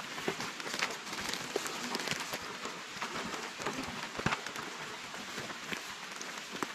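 Rain falling, with many small drops ticking on a nearby surface and one sharper tick about four seconds in.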